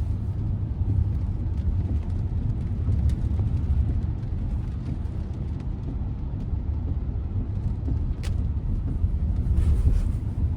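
Steady low road and tyre rumble inside the cabin of a Tesla Model Y, an electric car, driving on wet roads in heavy rain, with scattered faint ticks and a short high chirp about eight seconds in.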